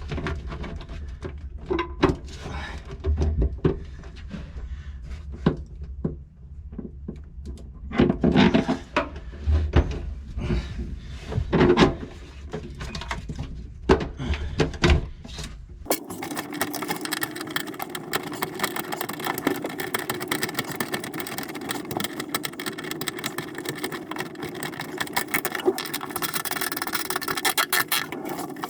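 Irregular clunks and knocks of hand work on equipment over a low rumble, then about halfway through a sudden switch to a steady, fast mechanical rattle.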